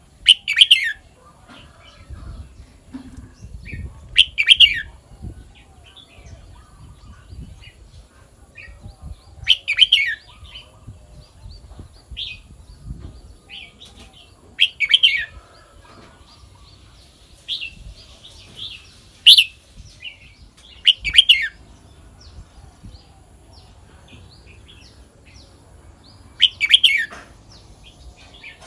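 Red-whiskered bulbul singing: about seven short, loud, warbled song phrases spaced a few seconds apart, with softer chirps between them.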